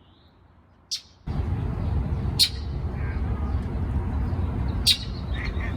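Small birds giving single short, sharp chirps every two to three seconds. Under them a loud, steady low rumble starts abruptly about a second in, like traffic or wind on the microphone.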